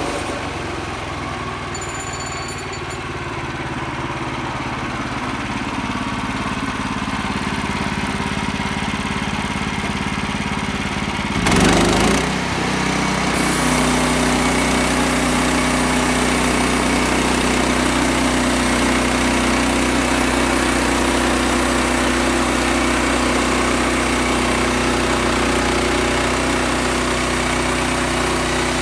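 Sawmill engine running steadily. About twelve seconds in there is a short, loud burst of noise, after which the engine's note shifts and holds steady.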